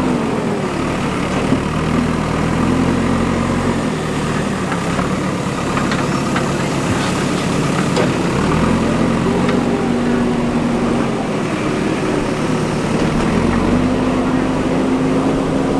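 Backhoe loader's diesel engine running under varying load, its revs rising and falling repeatedly as it works, with a few light knocks near the middle.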